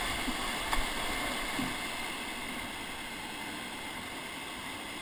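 Steady rush of river water around a paddle raft, easing slightly, with a small knock about a second in.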